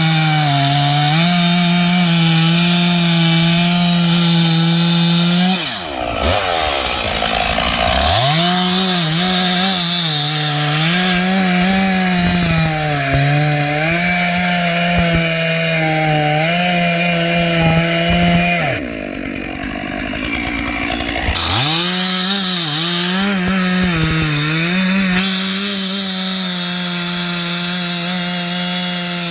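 Stihl 461 two-stroke chainsaw cutting ash firewood at high revs, the pitch dipping and recovering as the chain loads up in the wood. Twice the revs fall away, about six seconds in and again about two-thirds of the way through, before the saw revs back up.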